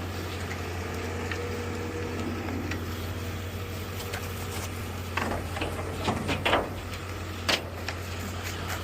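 A heavy machine's engine running steadily on a demolition site, with several short cracks and knocks of debris from about five seconds in, the loudest near seven and a half seconds.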